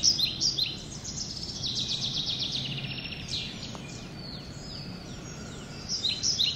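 Birds singing: quick series of high, falling chirps, with a fast trill about two seconds in and louder chirping again near the end, over a steady low background hum.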